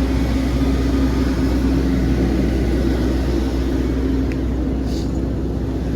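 A motor running steadily: a low rumble under an even hum held at one pitch.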